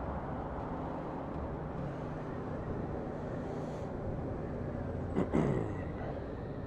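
Road traffic noise with a steady low engine hum. About five seconds in comes one short sound whose pitch drops quickly.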